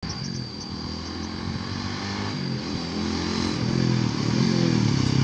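Honda Winner X's 150 cc single-cylinder engine running as the motorcycle rides toward the listener, growing louder, its pitch shifting up and down with the throttle.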